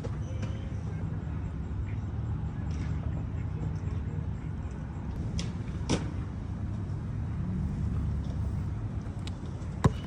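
A steady low rumble with two sharp knocks, one about six seconds in and a louder one near the end.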